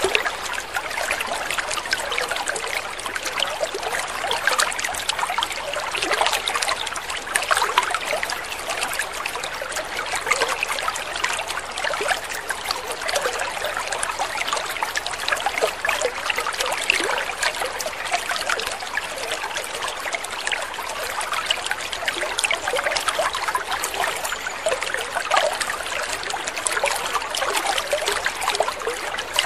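Water trickling and splashing steadily, a continuous babble of small splashes with no pauses.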